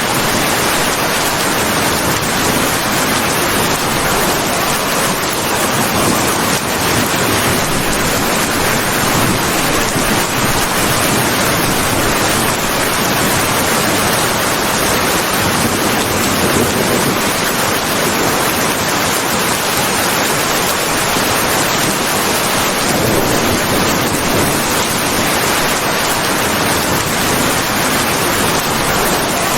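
Heavy rain falling steadily: a dense, even hiss with no let-up and no thunder.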